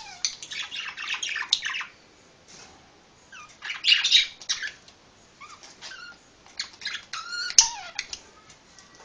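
A pet parrot chattering and squawking in three bursts of quick, sliding high calls with short pauses between. A single sharp click about three-quarters of the way through is the loudest sound.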